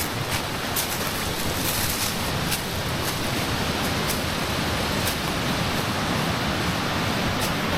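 Steady rush of a waterfall's falling water, with a few faint clicks in the first couple of seconds.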